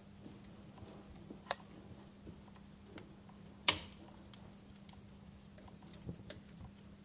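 Wood fire crackling in a fireplace: scattered small snaps and pops, with one sharper, louder pop about halfway through and a short cluster of pops near the end.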